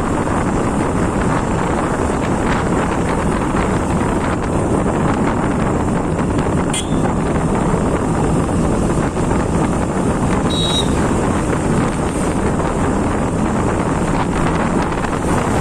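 Wind rushing over a phone microphone on a moving motorcycle, with engine and road noise underneath. A sharp click about seven seconds in and a brief high-pitched chirp near eleven seconds.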